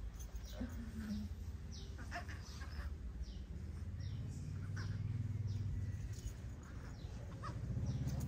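Small birds chirping in the background: short, high chirps scattered throughout, over a low steady rumble that swells about halfway through.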